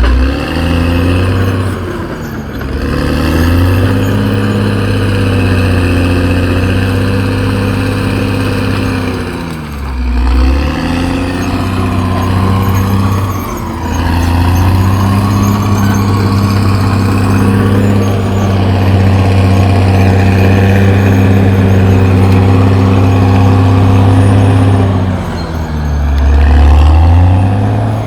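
CAT D6R XL bulldozer's diesel engine running hard; its pitch dips and climbs back three times, as the revs drop and recover.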